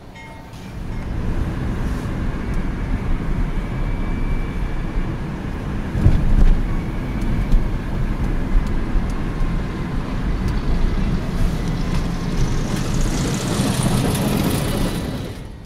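Passenger train cars rolling past with a steady low rumble, a heavier thump about six seconds in, and a hiss rising near the end.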